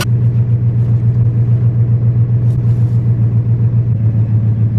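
A vehicle engine running steadily: a low hum that throbs regularly several times a second.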